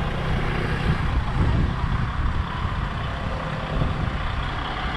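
Container truck's diesel engine running steadily at low speed with a deep rumble while it manoeuvres slowly through a tight turn.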